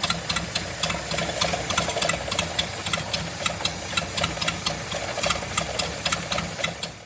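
Truck engine idling with a fast, regular ticking of about four ticks a second, running on its newly fitted electric fuel pump.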